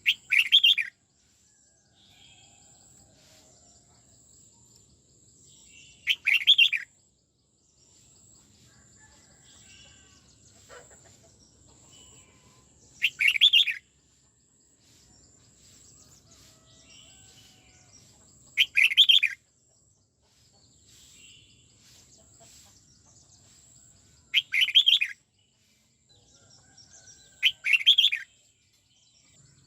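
Red-whiskered bulbul singing: six short, loud song phrases, each under a second and several seconds apart, with faint chirps between them. A faint steady high-pitched tone runs underneath.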